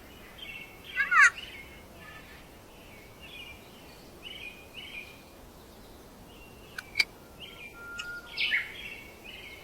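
Indian ringneck parakeet giving short chirps, with a loud, harsh, wavering squawk about a second in and more calls near the end. A sharp click comes about seven seconds in.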